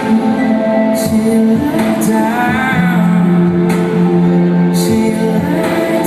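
Live pop band music through an arena sound system: held chords over a steady beat, with short bright percussion hits now and then.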